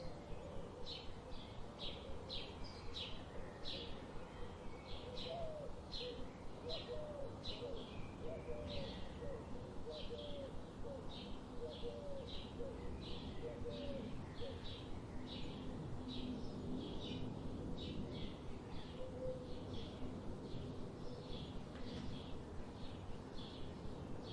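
Birds chirping: short high chirps repeating about twice a second over a steady outdoor hiss, with a lower, softer repeated call in the first half.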